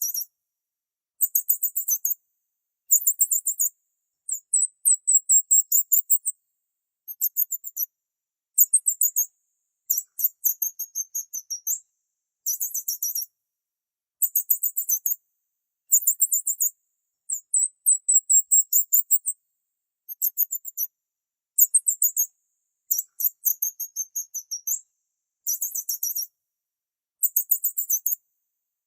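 A small bird chirping in repeated bursts. Each burst is about a second of quick, very high-pitched notes, separated by short silent gaps.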